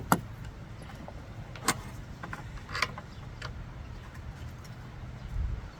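Hand tools and small metal parts clinking during lawnmower disassembly: a few sharp taps, the loudest just after the start and two more within the next three seconds, over a steady low background hum.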